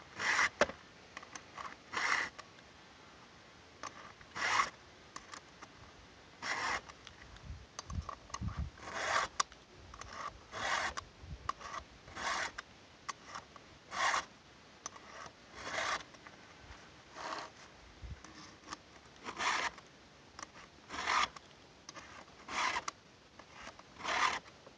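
Chainsaw file in a Stihl file guide being pushed across the cutters of a Stihl MS 290's chain: short, evenly paced rasping strokes about every one and a half to two seconds, the same number of strokes on each tooth for an even sharpen.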